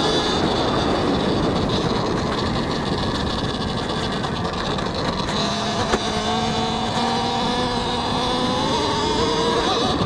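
Talaria X3 electric dirt bike ridden at speed: the electric motor's whine rising and falling in pitch with the throttle, over heavy wind buffeting on a helmet mic. A single sharp knock comes about six seconds in.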